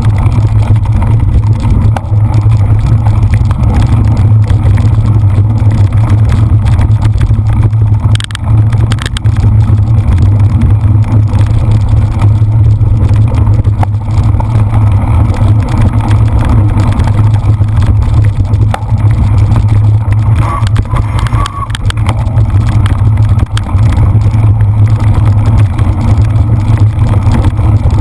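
Loud, steady low rumble of wind buffeting and rolling noise on the microphone of a camera carried on a bicycle riding off-road.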